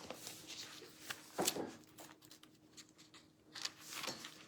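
Quiet room with a few faint rustles and soft clicks, the clearest about a second and a half in and again near the end, over a faint steady hum.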